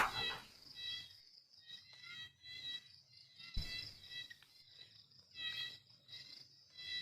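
Crickets chirping in repeated short bursts, with a sharp click at the very start and a low thump about three and a half seconds in.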